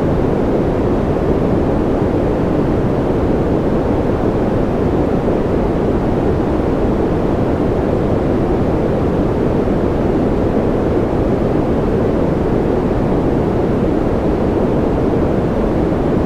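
Steady noise from a sleep noise track, sounding as a deep, even hiss with most of its weight in the low and middle range and little at the top. It does not change.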